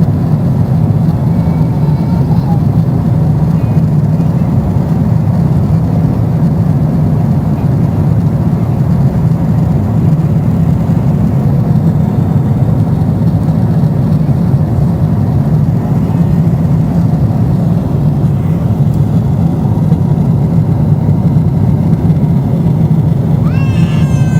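Airliner cabin noise: the steady, loud, low drone of the engines and airflow heard from inside the passenger cabin. Near the end a brief high voice, such as a child's cry, rises over it.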